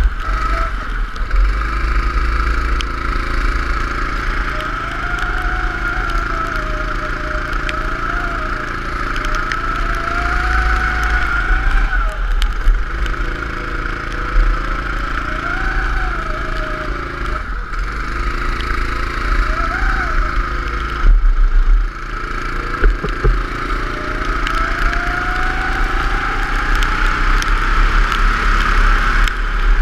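Go-kart engine running hard on track, its pitch rising and falling every few seconds as it speeds up and slows through the corners, with a heavy low rumble underneath and a few brief drops in level.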